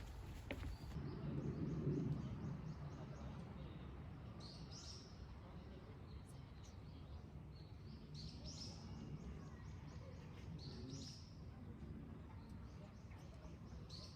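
Birds calling faintly outdoors: short, rapid trilled phrases about every three seconds, over a low steady rumble of background noise.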